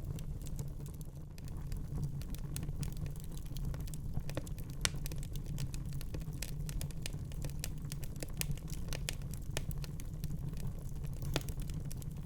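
Wood fire crackling in a fireplace: irregular sharp pops and snaps, dense and scattered, over a steady low rumble of the flames.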